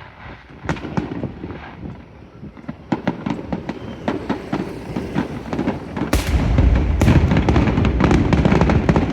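Fireworks going off: scattered sharp crackling pops that grow rapid and dense, then heavy booming bursts mixed with crackle from about six seconds in.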